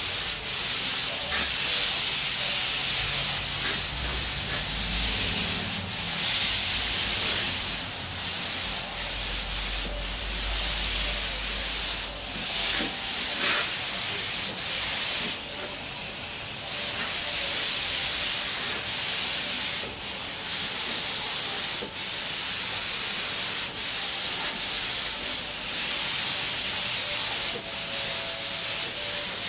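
Paint spray gun hissing as compressed air sprays paint, in long passes broken by short pauses.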